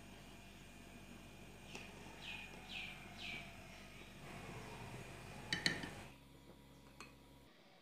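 A bird calling in the background: four short falling chirps in quick succession. A little after halfway comes a quick cluster of sharp clicks, the loudest sound, before the background cuts out abruptly.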